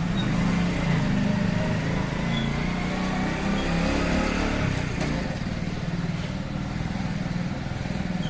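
Motorcycle engine running steadily while riding along a city street, with traffic noise around it.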